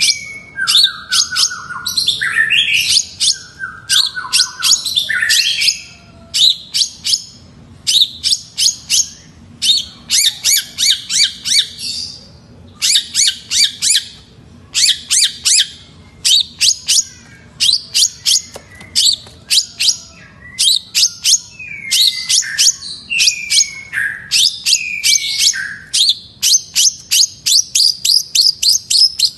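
Long-tailed shrike (cendet) in full song: continuous rapid runs of sharp, clicking chatter notes, mixed with short downward-slurred whistles.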